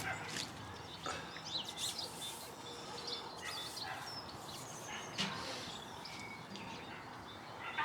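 Small birds chirping and singing: a string of short, high, quick calls over a quiet background.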